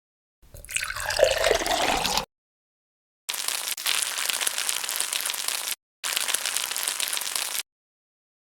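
Liquid pouring into a pan with a shifting pitch, then two stretches of frying sizzle, a dense hiss of fine crackles from hot oil. Each clip cuts off abruptly.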